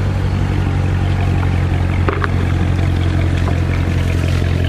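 A car engine running steadily at low revs, heard as an even low hum, with a couple of faint clicks about two seconds in.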